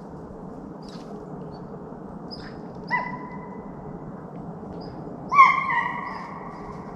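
Deer-hunting hounds baying on the run: two long, drawn-out bawls, the second louder, about two and a half seconds apart.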